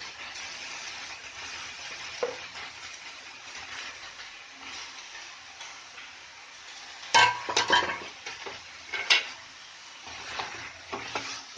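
Chicken and capsicum sizzling in a frying pan while being stirred, a steady frying hiss. About seven seconds in a quick cluster of sharp metal clanks against the pan rings out, and another single clank comes near nine seconds.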